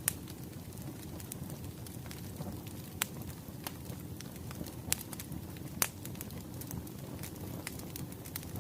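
Wood fire crackling: a steady low rumble with scattered sharp pops, the loudest four coming near the start, about three seconds in, near five seconds and near six seconds.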